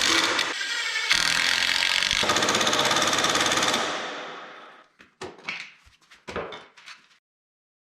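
A handheld power tool running with a rapid rattling pulse, stopping briefly after half a second, then running again for about three seconds before winding down. A few light knocks follow near the end.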